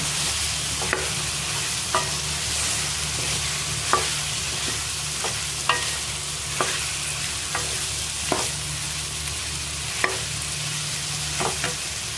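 Cauliflower and potato pieces sizzling in oil in a metal pan while being stirred with a spatula, with sharp clacks of the spatula against the pan about every second or two.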